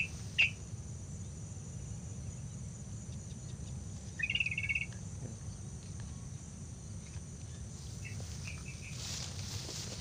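Yellow-vented bulbul (trucukan) calling: a short bubbly chatter about four seconds in and a few brief chirps near the start and about eight seconds in. A steady high insect drone and a low rumble run underneath.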